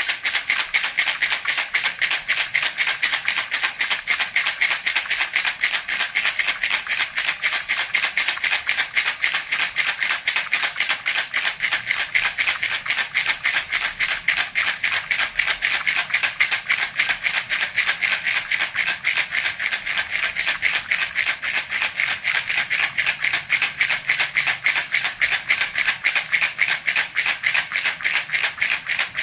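Baby rattle (jhunjhuna) shaken continuously in a rapid, even rhythm, making a steady bright rattling.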